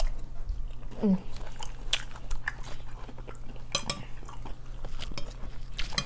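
Close chewing and crunching of loaded nachos made with Flamin' Hot Doritos tortilla chips, heard as many short, irregular crackles, with forks clinking and scraping on plates.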